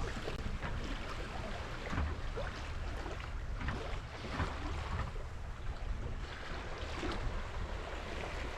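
Water rushing and splashing along the hull of a moving sailing yacht, with wind buffeting the microphone as a steady low rumble.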